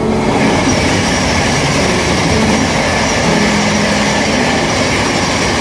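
Thameslink Class 700 electric multiple unit passing through at speed: a loud, steady rush of wheels on rail and air that starts suddenly as the front of the train reaches the platform.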